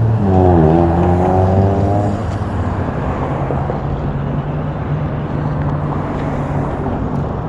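Road traffic: a motor vehicle's engine note dips and then climbs for the first couple of seconds, then settles into a steady traffic rumble and hum.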